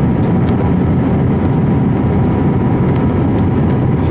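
Airbus A320 cabin noise in flight: the steady, even rumble of the jet engines and airflow heard from inside the passenger cabin, with a faint steady tone above it.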